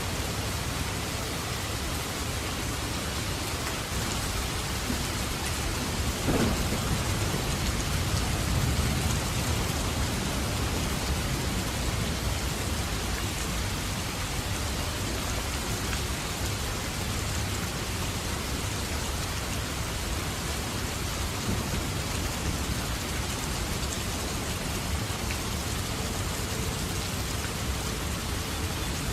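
Steady rain falling during a thunderstorm, with a low rumble of thunder rising about six seconds in and fading over a few seconds.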